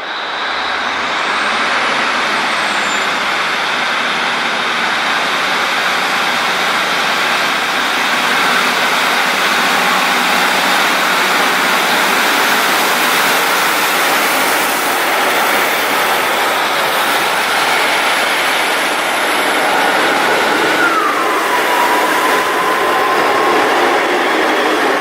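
A train moving through the station platform: a loud, steady rush of wheel and running noise that builds over the first couple of seconds, with a thin whine that drops in pitch near the end.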